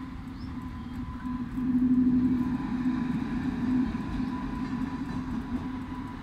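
Indian Railways locomotive passing close by: a steady low hum over a rumble, swelling louder about two seconds in and easing off toward the end.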